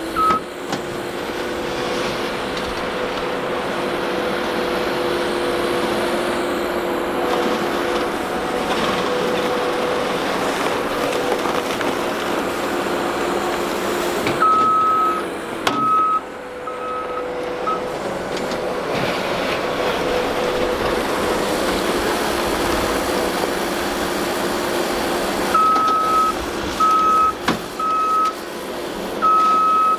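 ASV RT-40 compact track loader running steadily, its backup alarm beeping as it reverses, in two spells: about halfway through and again near the end.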